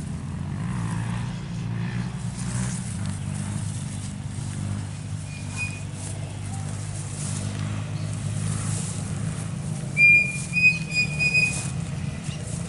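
A steady low rumble, with one short high whistle about halfway through and a run of three or four short, level high whistles near the end.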